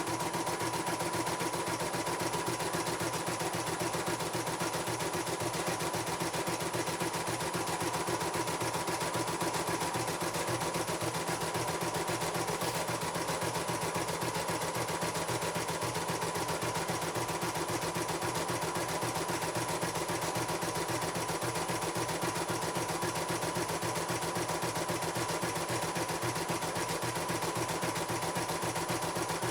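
CNY computerized embroidery machine stitching, its needle running in a fast, even rhythm at a steady pace.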